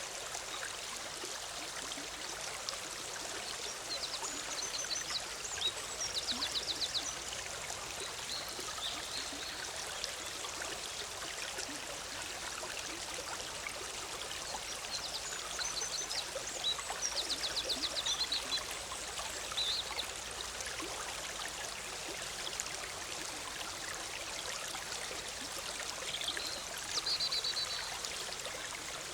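Shallow forest stream bubbling and splashing steadily. Three times over it a small bird sings a short, rapid high trill.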